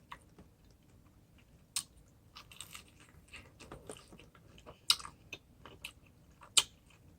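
A person chewing food with crunching bites: scattered short, sharp crackles and clicks, the loudest about two, five and six and a half seconds in.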